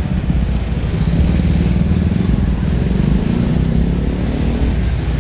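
Busy road traffic dominated by motorbike engines passing close by, one engine rising in pitch about three seconds in.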